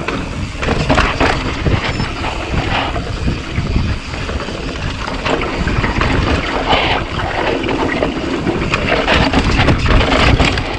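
2018 Rocky Mountain Slayer mountain bike descending a steep, loose, rocky downhill trail: tyres rolling and crunching over dirt and rock, with the bike rattling and knocking over bumps throughout. Wind noise buffets the camera microphone.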